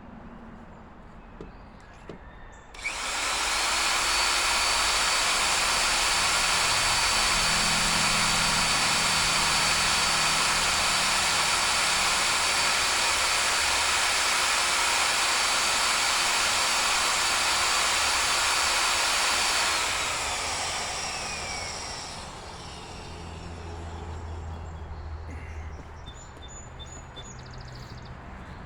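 Power drill driving a drill bit into a seized steel hydraulic cylinder pin: the motor starts about three seconds in and runs steady with a high whine for about sixteen seconds, then winds down as it is let off.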